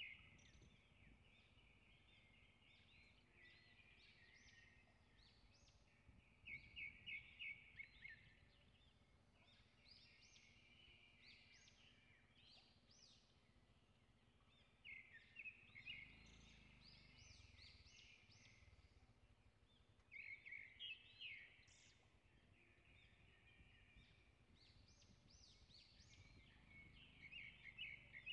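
Faint birds calling in scrub: bursts of quick, high chirping notes come every few seconds over a low outdoor hush.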